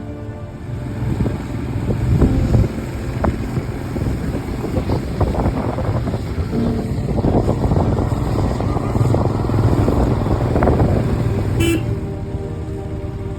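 Motorcycle engine and road noise, a loud low rumble with scattered knocks, and a brief horn toot near the end. Background music sits faintly underneath and comes back up in the last second or so.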